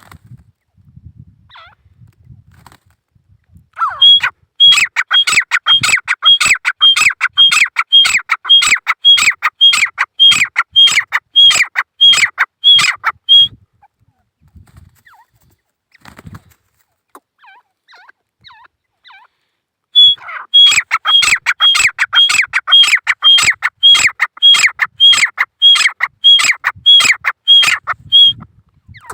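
Grey francolin (gora teetar) calling: two long series of loud, shrill, evenly repeated notes, about two a second, each note sliding down. The first series starts about four seconds in, and the second comes after a pause of several seconds.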